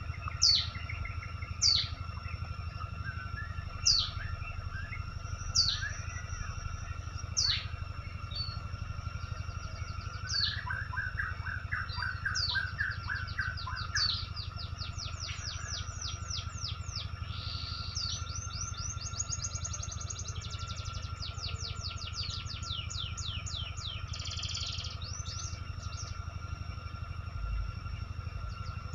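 Tropical forest birds calling: a loud downward-sweeping whistle repeated about every two seconds for the first several seconds, then fast runs of quick repeated notes, over a steady background hum.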